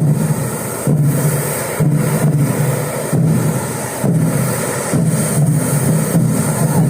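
Hand-held bamboo tube fireworks (tezutsu hanabi) spraying: a loud, steady rushing roar with a low throb that swells and dips about once a second.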